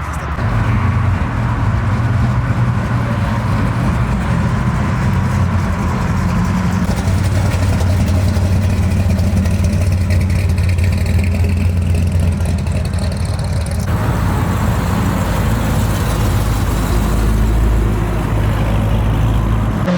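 Car engine running with a steady, loud low rumble. The sound changes abruptly about 14 seconds in to another low engine rumble.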